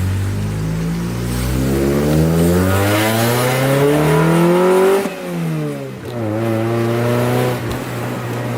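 Honda F22B1 2.2-litre SOHC VTEC four-cylinder engine accelerating, its pitch climbing for about five seconds. The revs drop sharply at a gear change, then climb again and level off.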